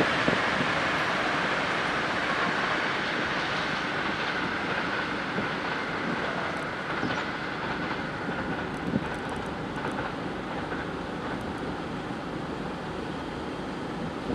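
Electric-hauled passenger train rolling past on the rails and moving away, its wheel-on-rail rumble fading steadily.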